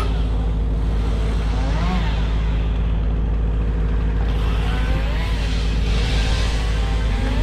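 Engine of tree-work equipment running steadily with a deep drone, with a short rising-and-falling whine every two to three seconds.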